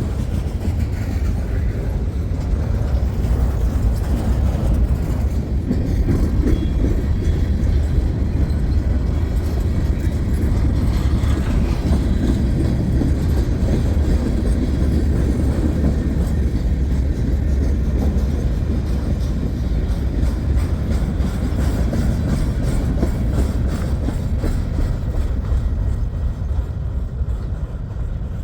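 Freight cars of a long train rolling past on the rails, a steady low rumble of wheels on track.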